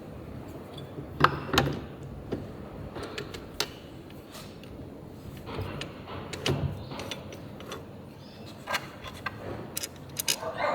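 Scattered clicks and knocks of hand tools and metal engine parts being handled during engine work, with a sharp knock about a second in and a quick run of clicks near the end.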